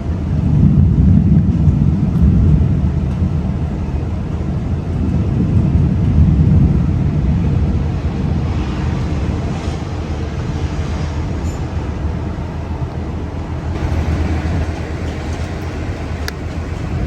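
A loud low rumble that swells and eases without a break, heaviest in the first seconds.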